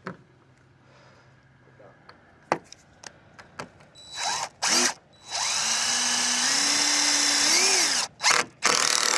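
Power drill driving screws into composite decking boards: a few knocks, then a short burst about four seconds in, a long run of about three seconds with the motor pitch stepping up and swelling before it stops, and two more short runs near the end.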